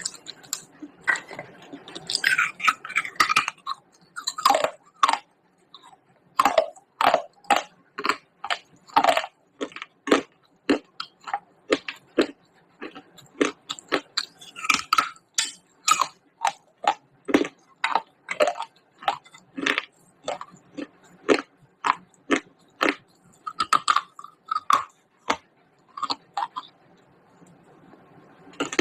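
Someone biting and chewing pieces of baked clay pot, a steady run of sharp crunches about two a second, with a denser crackling stretch near the start.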